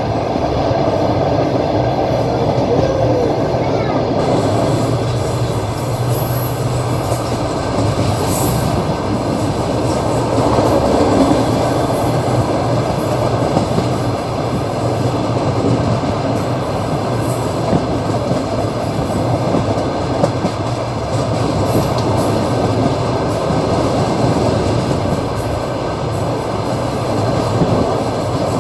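Passenger train running along the line, heard from inside the carriage at the window: a steady rumble of wheels on rail with occasional clacks and a few brief high squeals.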